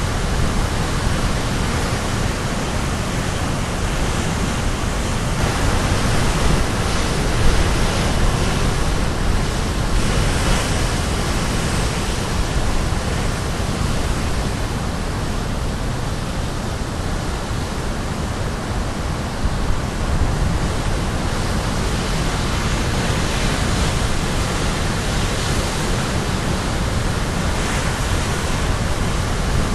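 Caribbean Sea surf breaking on the shore: a continuous rush of waves that swells now and then as a wave breaks.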